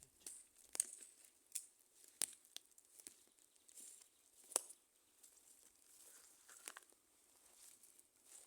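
Wood fire crackling faintly, with irregular sharp pops and snaps; the loudest come just under a second, about two and a quarter, and about four and a half seconds in.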